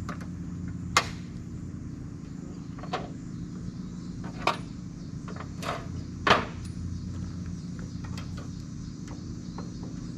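Sharp knocks and clacks of camp kitchen gear being handled and set down, the loudest about a second in and just past the middle, over a steady low hum.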